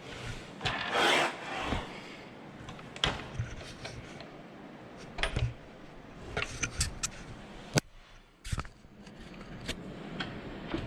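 Handling of a miter saw's mounting brackets on a metal saw stand: a scrape about a second in, then scattered clicks and knocks as the brackets and release levers are set and locked onto the rails.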